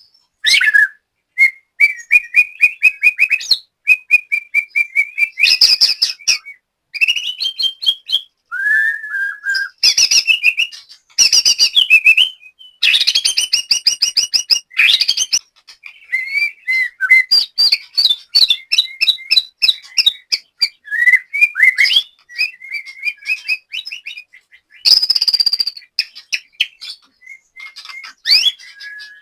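White-rumped shama (murai batu) singing loudly in a long run of varied phrases: clear whistled notes mixed with fast, rattling chatter and trills, broken by short pauses.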